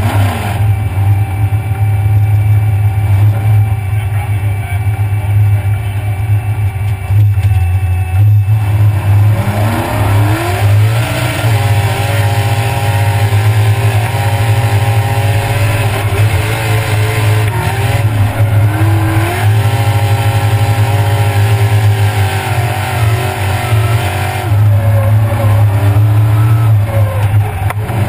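Mud-race car's engine heard from inside the cab, running hard under a heavy low rumble. About a third of the way in the revs climb sharply and stay high, dipping briefly a few times as the throttle is worked, then climbing again.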